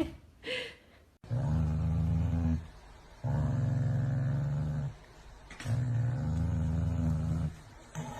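An animal growling: three long, low growls with short pauses between them.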